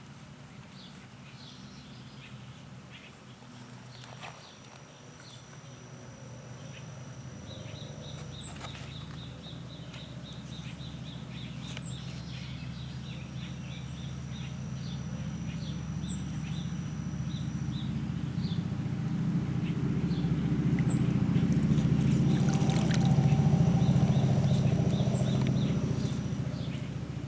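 Outdoor ambience: a low drone swells gradually, peaks about three-quarters of the way through, and fades. Over it comes a quick run of high chirps, with a few thin high whines and scattered bird calls.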